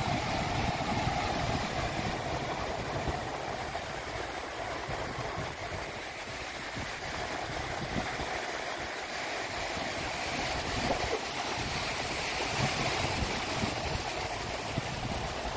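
Ocean waves washing in steadily with wind blowing across the microphone, the surf easing slightly midway and building again toward the end.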